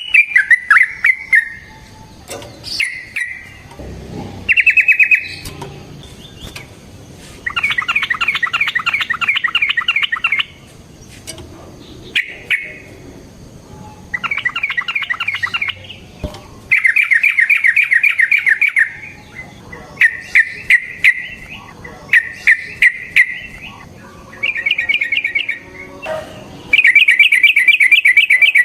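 Yellow-vented bulbul (trucukan) singing in repeated bursts of rapid chattering trills, each a second or two long, with short pauses between them.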